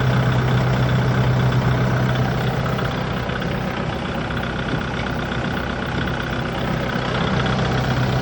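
Kubota broom tractor's diesel engine running steadily with the PTO engaged to drive the sweeper broom: a steady low hum that dips a little in level for a few seconds in the middle.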